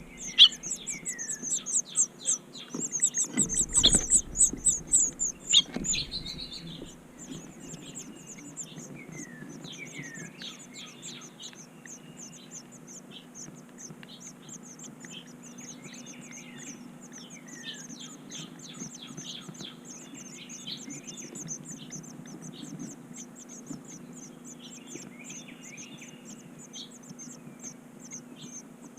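Small birds chirping: a rapid high-pitched chirping runs throughout, with short downward-sliding whistles every few seconds. A louder flurry of chirps with a few low thumps comes in the first six seconds.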